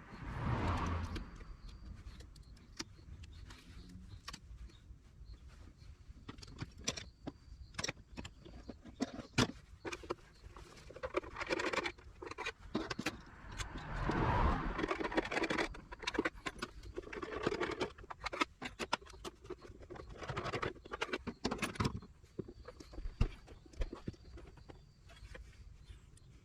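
Irregular small clicks, light knocks and rustling from hands handling parts and tools, with a few longer scraping stretches of about a second each.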